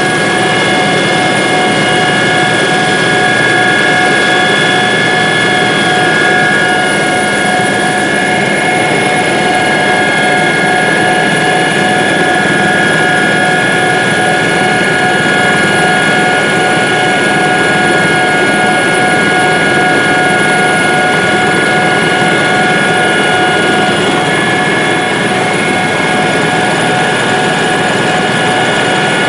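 Helicopter running, heard loud and steady from inside the cabin: a dense rushing noise of engine and rotors with several steady high whining tones over it.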